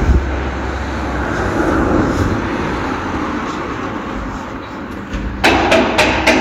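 Street ambience with passing road traffic as a steady noise and a low rumble at first. It is broken about a second before the end by a few sharp clicks or knocks.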